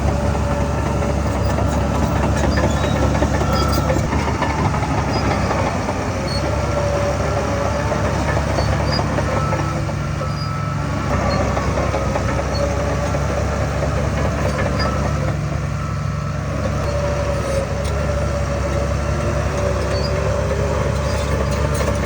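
Heavy diesel earthmoving machinery running steadily: a deep engine drone with a wavering whine over it.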